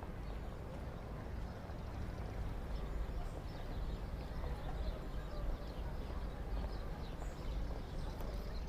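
Sound-designed street ambience: a steady low rumble and noise bed, with faint short high chirps scattered through it.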